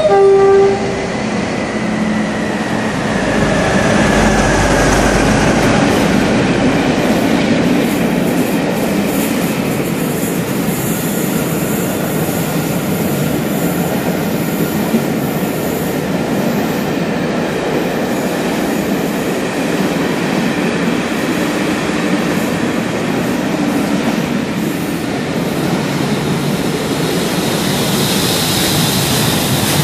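Passenger train running through the station hauled by a diesel locomotive: its horn ends in the first second, then the coaches pass the platform with a steady rumble and rattle of wheels on the rails. Near the end the steam locomotives coupled in the train go by and the sound turns brighter.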